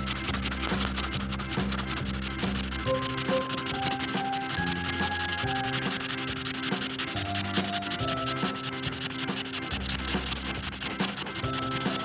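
A drawing tool rubbing and scratching steadily across paper as a picture is drawn, over soft background music with held notes.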